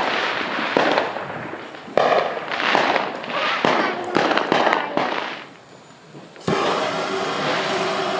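Fireworks going off: a run of sudden bangs, each followed by crackling. Then a short lull, and about six and a half seconds in, a steady whooshing hum starts abruptly.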